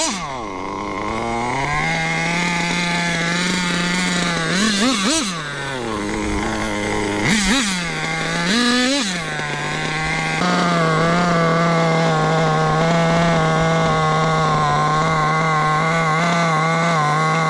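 Kyosho KE21SP two-stroke glow (nitro) engine of an RC car running, with the revs jumping up and falling back several times in the first ten seconds. From about ten seconds in it holds steady at high revs.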